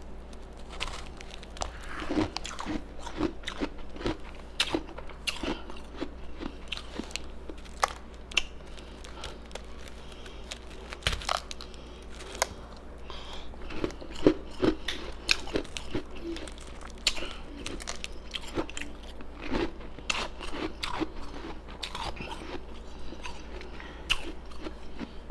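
Ice being bitten and chewed close to the microphone: many sharp crunches, irregular and several a second, with softer chewing and mouth sounds between them.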